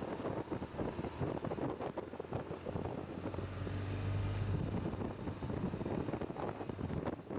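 Wind buffeting the microphone in uneven gusts. A low, steady engine hum swells briefly in the middle.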